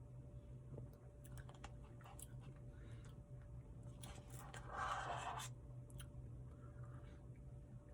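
Quiet eating sounds from a Blizzard ice-cream cup: scattered small clicks and taps, with a louder scraping rustle about four seconds in that lasts around a second and a half. A steady low hum runs underneath.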